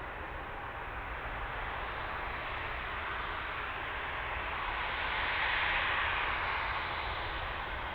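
Aircraft engine noise, a steady rush that swells to its loudest about five to six seconds in and then eases.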